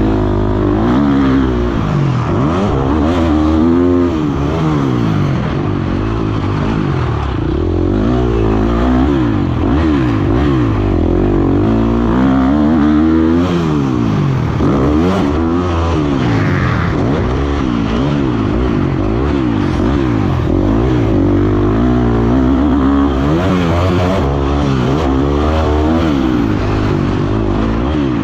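Motocross dirt bike engine revving hard, its pitch climbing and dropping over and over as the rider works the throttle and gears.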